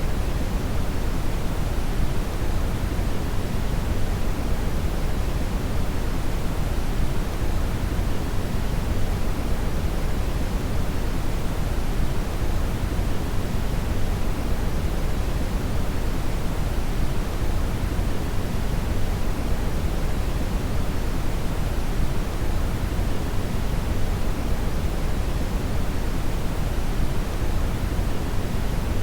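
Steady, unchanging brown noise (red noise): a deep, even hiss weighted heavily toward the low end.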